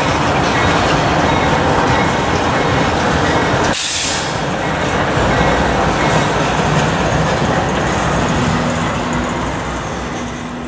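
Freight train rolling past close by: a steady rumble and rattle of tank cars and covered hopper cars on the rails, easing off a little near the end.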